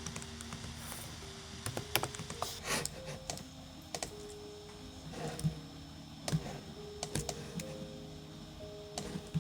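Irregular light clicks and taps over soft background music of held, slowly changing notes.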